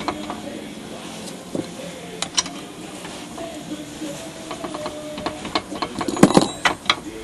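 Hand tools clicking and knocking on metal bolts and brackets, with a quick run of louder knocks about six seconds in.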